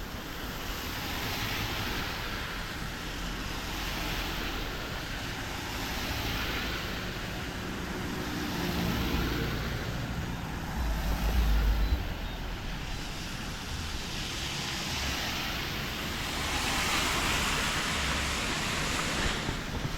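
Vehicles passing one after another on a wet road, their tyre hiss swelling and fading in turn. A deeper engine rumble is loudest about eleven seconds in.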